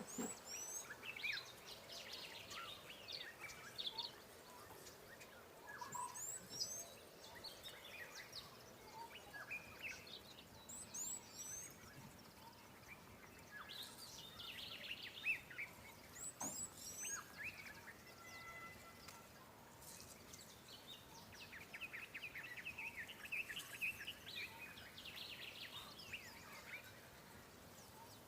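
Faint birdsong: several birds chirping in short scattered phrases, with a higher quick sweeping call that comes back about every five seconds.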